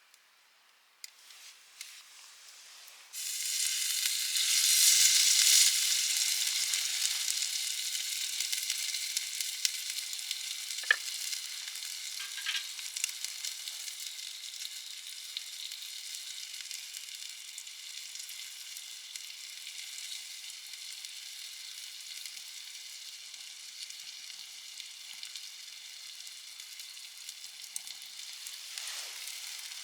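Food sizzling on a hot campfire grill, starting suddenly about three seconds in as it goes onto the heat, loudest just after and then slowly settling into a steady sizzle with occasional small pops.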